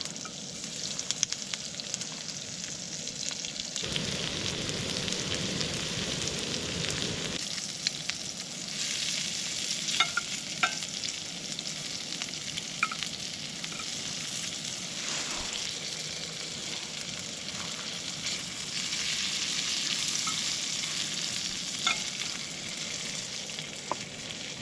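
Diced potatoes frying in hot oil in a pan: a steady sizzle with scattered short pops and clicks, fuller-sounding for a few seconds about four seconds in.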